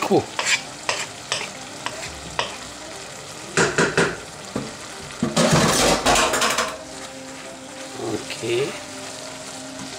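Minced beef and freshly added grated carrot sizzling in a stainless steel saucepan while a wooden spoon stirs through them, with short scrapes of the spoon. The sizzle swells into a louder rush for about a second and a half, starting about five seconds in.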